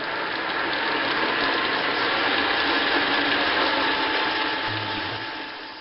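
Smithy Granite I-Max GN1340 combination lathe running its freshly reassembled quick change gearbox, gears whirring and clattering. The sound builds up at the start and dies away near the end as the machine spins up and runs down.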